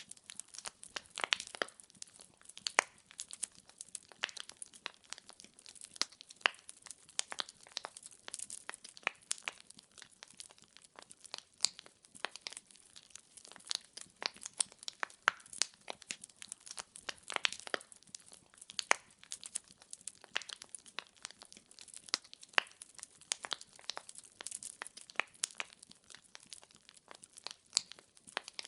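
Burning firewood crackling: a dense, irregular run of sharp pops and snaps over a faint hiss.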